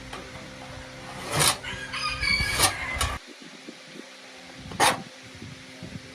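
A rooster crowing in the background. Several sharp knocks or clicks and a steady low hum come with it, and the hum cuts off about three seconds in.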